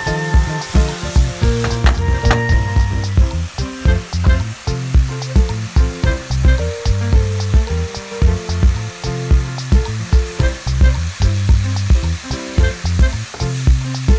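Tilkişen (wild asparagus) kavurma sizzling in olive oil in a pan as it is stirred, under background music with a steady beat.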